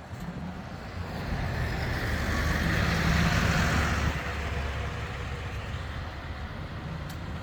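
A large vehicle passing close by, its low hum and road noise growing louder to a peak about three seconds in and then fading.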